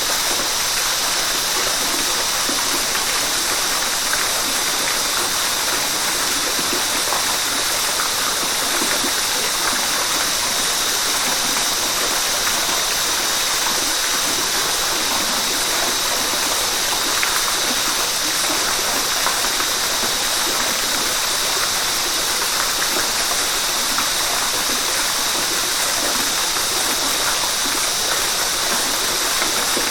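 River water flowing, a steady, unbroken rushing hiss.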